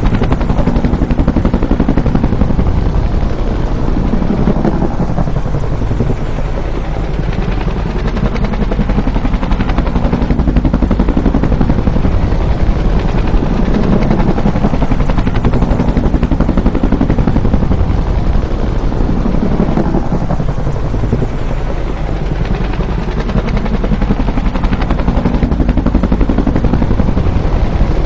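Bell UH-1 'Huey' helicopter flying by, its two-bladed main rotor beating with a fast, steady blade slap over the turbine. The sound dips briefly about six seconds in and again about twenty-one seconds in, then builds back up.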